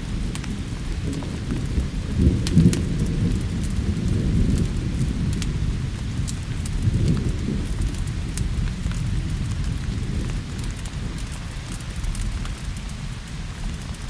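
Thunder rumbling low and continuously over steady rain, swelling into louder rolls about two and a half seconds in and again around seven seconds. Sharp crackles and pops of a burning wood fire come and go throughout.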